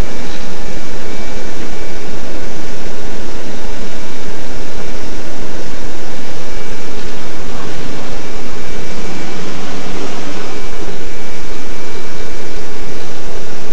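Steady interior noise of a Joetsu Shinkansen 200-series train: an even, dense rush with a faint high steady whine under it.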